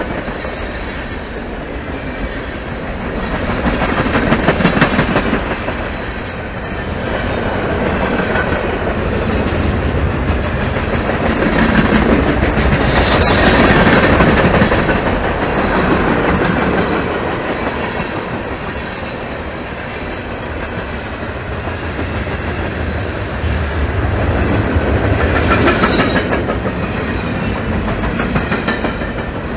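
Norfolk Southern freight train's cars rolling past close by, a continuous rumble and clickety-clack of wheels over the rail joints that swells and eases in waves. Brief high-pitched wheel squeals come about halfway through and again near the end.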